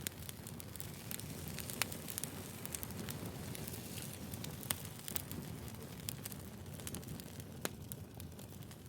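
Firewood burning: a steady low rumble of flames with frequent small crackles and a few sharper pops, the loudest about two, five and eight seconds in.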